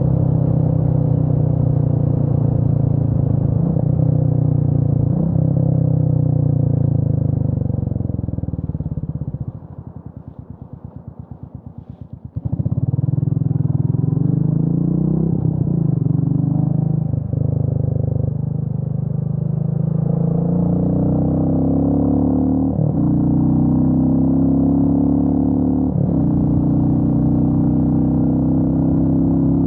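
Royal Enfield Meteor 350's single-cylinder engine running on the road, its pitch rising and falling with the throttle. About a third of the way in it drops off to a quiet, evenly pulsing low beat for a few seconds, then comes back strongly under power.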